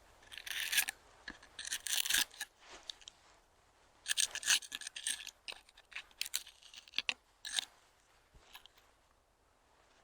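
Scraping and rustling in irregular bursts, with a few sharp clicks in between.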